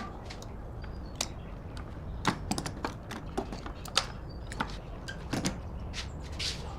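Irregular light clicks and taps of parts and hand tools being handled, a few a second, over a low steady background hum.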